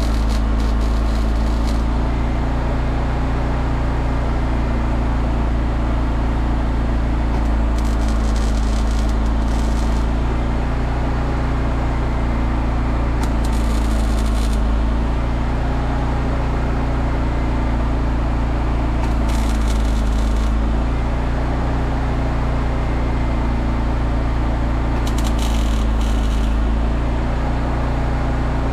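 MIG welder laying short tack welds: five brief bursts of crackling hiss, each a second or two long, every five or six seconds, over a steady machine hum.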